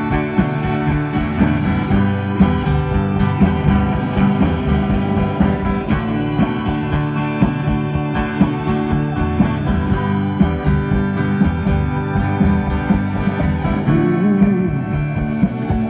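Rock band playing an instrumental passage with guitars over a steady drum beat and no singing.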